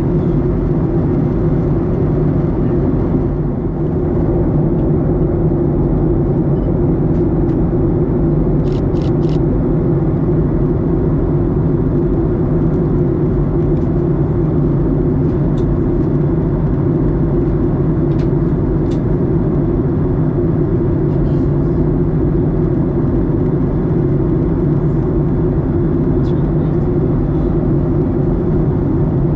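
Steady cabin drone of a Boeing 737-900ER airliner in flight, the sound of its engines and the airflow heard from a window seat, with a few faint clicks, three close together about nine seconds in.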